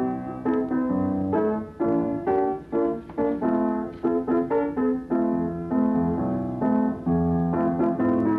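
Instrumental piano music: a melody of separate struck notes over chords, with no singing.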